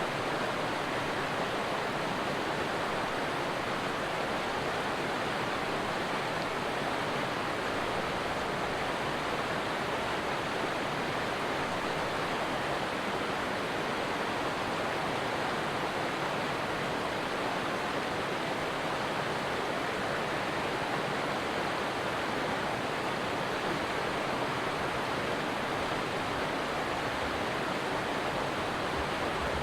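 A stream flowing with a steady, even water sound that does not change.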